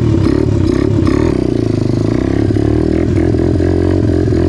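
Tao Tao DB17 dirt bike engine running on a test start after a new spark plug was fitted, its pitch wavering in the first second or two and then holding steady.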